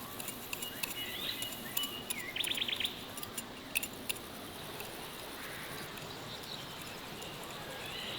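Small birds chirping, with a quick trill about two and a half seconds in, over sharp clicks that stop about halfway through.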